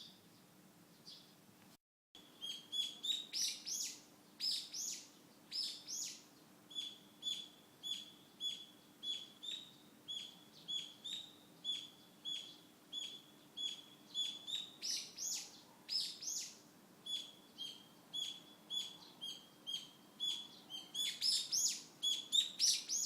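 Small wild songbirds chirping, beginning about two seconds in. Short two-part calls, a level note and then a higher, sharper one, repeat nearly twice a second and grow busier near the end.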